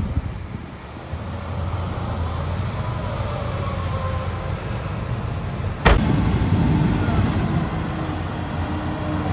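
Diesel engine of heavy earthmoving machinery running steadily. A sharp click comes about six seconds in, after which the engine is louder and a steady hum runs with it.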